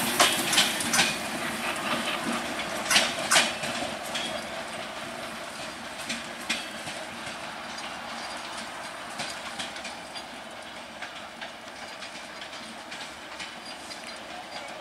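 Passenger coaches of an intercity express train rolling away over the track, the wheels clicking over rail joints. The clatter is loudest in the first few seconds, with a few sharp clicks, then fades steadily as the train recedes.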